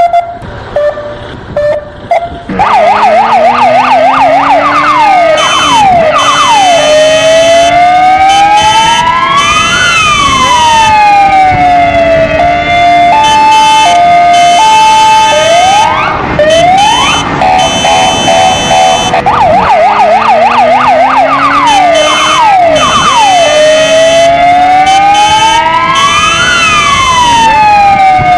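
Kingvox ERP electronic siren sounding loudly from about two and a half seconds in, cycling through its tones: a fast yelp, long rising-and-falling wails, a two-note hi-lo stretch and a rapid warble, with a motorcycle engine sound running underneath.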